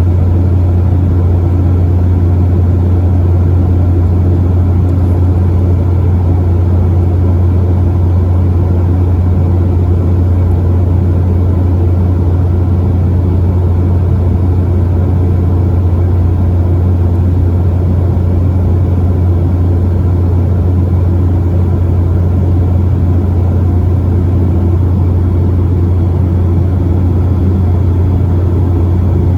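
Embraer 195LR jet airliner's cabin noise: a steady, loud, low drone of its GE CF34 turbofan engines and rushing airflow, with no change in pitch or level.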